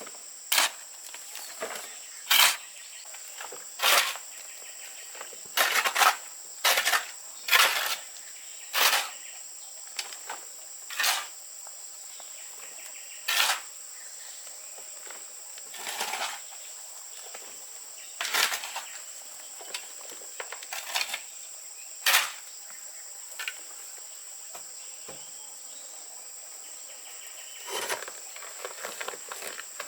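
Irregular sharp clinks and knocks of stone and hand tools, about one every second or two, during stone-laying work. Under them runs a steady high insect drone.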